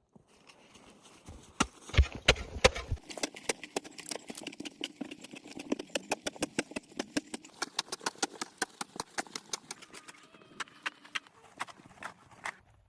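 A quick, uneven run of sharp knocks and clicks, several a second, with a few heavier thumps about two seconds in.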